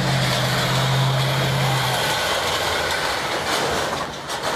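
A vehicle engine running at a steady pitch, which gives way about two seconds in to a noisier, fading rumble.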